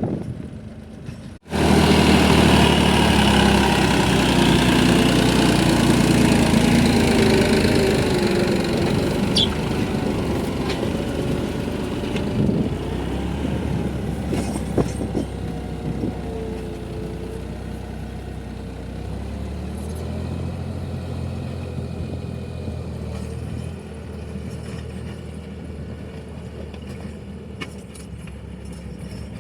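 Tractor diesel engine running steadily. It cuts out briefly about a second in, then comes back louder and eases off gradually over the rest of the stretch.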